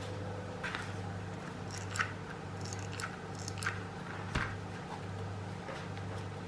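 Hand-work noises of hot-gluing rope onto a plastic bottle: scattered small clicks and crackles as the plastic and rope are handled, with the sharpest clicks about two seconds in and about four seconds in. A low hum runs underneath.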